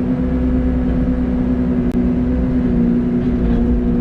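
Excavator diesel engine running at a steady speed, a constant droning hum, with a small click about two seconds in.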